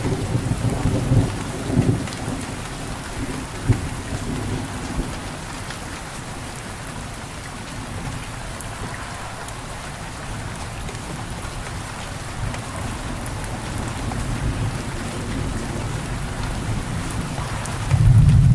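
Steady rain falling, with a low rumble of thunder that is heavy at first, fades after a few seconds and swells again near the end.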